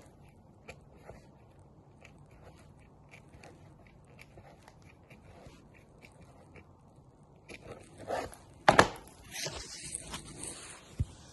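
Metal snips cutting the plastic of the old bumper: faint clicking snips at first, then a louder run of crunching cuts and scraping plastic, loudest about nine seconds in. A single knock comes near the end.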